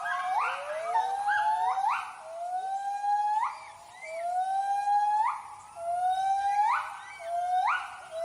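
White-handed gibbons giving their territorial hooting call: a series of rising whoops, about one a second, with more than one voice overlapping near the start.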